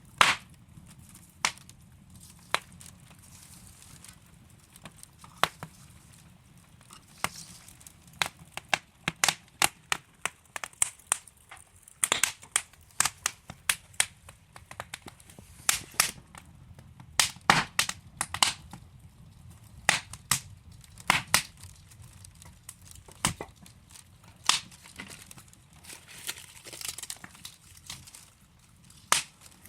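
Wood fire crackling: burning logs give off irregular sharp pops and snaps, in quick clusters at times, over a low steady hiss.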